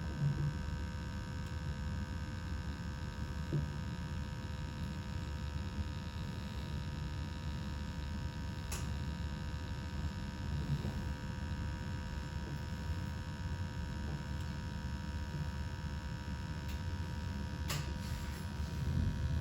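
Slant Fin gas-fired boiler running with its burners lit: a steady low rumble under a constant hum, with two light clicks, one midway and one near the end.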